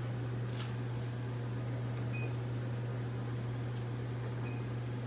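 Magic Chef 1.6 cu ft portable washing machine running, its motor giving a steady low hum.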